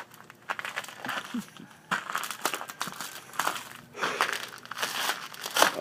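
Footsteps crunching through ice-crusted snow: a run of irregular crunches and crackles.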